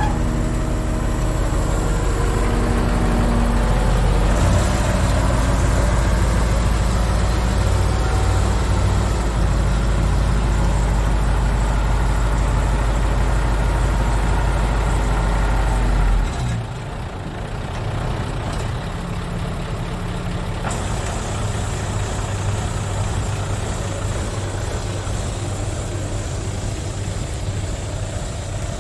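Hino Super Dolphin's 20-litre F20C V8 diesel engine running steadily. A little past halfway its deep low rumble drops away and it carries on somewhat quieter.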